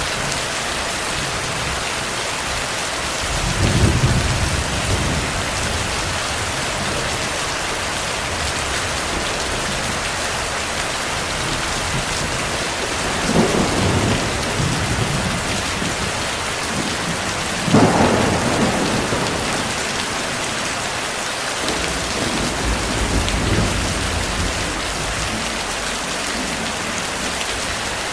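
Steady heavy rain, with thunder rumbling several times: about 4 seconds in, around 13 and 18 seconds in (the sharpest and loudest), and a lower, longer roll a little after 21 seconds.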